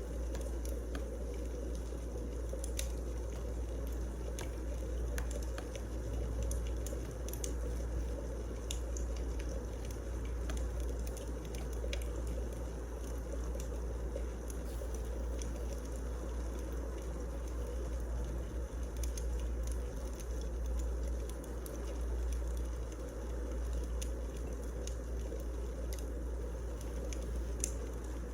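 Wood fire burning in a fireplace: a steady low rush of flames with scattered sharp crackles and pops throughout.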